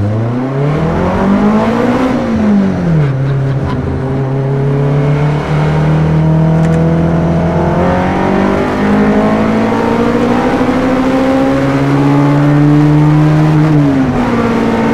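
BMW K1200RS inline-four motorbike engine in a Hillman Imp, heard from inside the cabin while driving: the revs climb hard for about two seconds, drop with a gear change and hold steady, then rise again about eight seconds in, climbing slowly until they fall back near the end.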